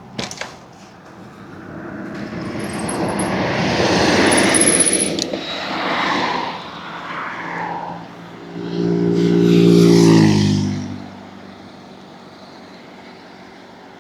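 Road traffic going by: a swell of tyre and road noise that rises and fades over several seconds, then a louder motor vehicle whose low engine note drops in pitch as it passes and fades away.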